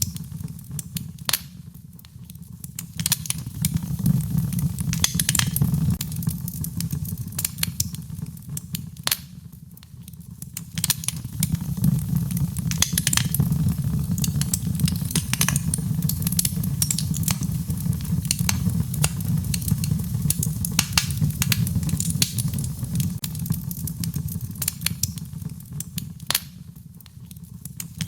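Wood fire in a fireplace crackling, with frequent sharp pops and snaps over a low roar of the flames that swells and eases off a few times.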